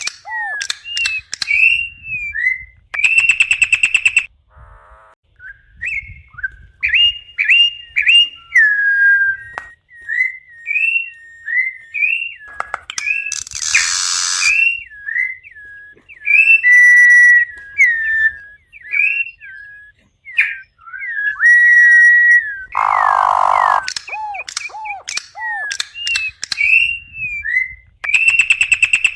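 Campo troupial (corrupião) singing: a long run of clear, slurred whistled notes and phrases, broken a few times by harsh, buzzy notes.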